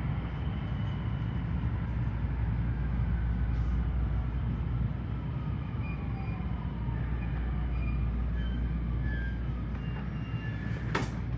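JR West 223 series 5000 electric train running with a steady low rumble, its motor whine sliding down in pitch as it slows, and a sharp click about eleven seconds in.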